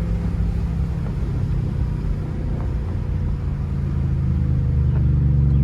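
BMW 550i's V8 engine running through catless downpipes and a straight-piped exhaust as the car drives, with a steady low drone that grows louder about two-thirds of the way through.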